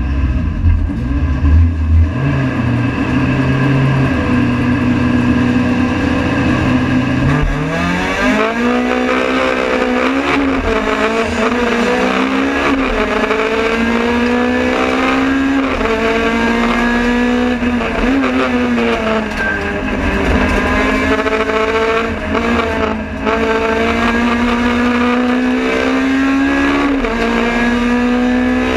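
Honda Civic FD2 race car's four-cylinder engine heard from inside the cabin, held at low revs for about seven seconds, then pulled hard at full throttle. The revs climb and drop back again and again as it shifts up through the gears, with a few brief lifts later on.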